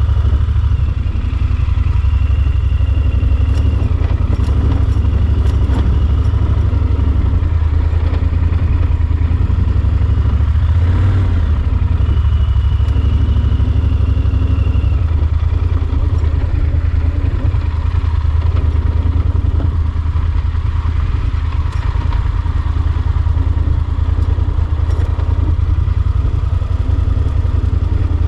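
Yamaha Super Ténéré XT1200 parallel-twin engine running steadily while being ridden, heavy with low rumble. A faint high whine rises twice, a couple of seconds in and again around twelve seconds.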